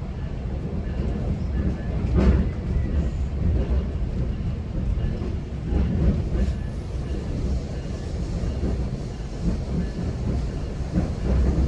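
GO Transit bilevel passenger coach in motion: a steady low rumble of wheels on rail, with a few sharp knocks about two, six and eleven seconds in.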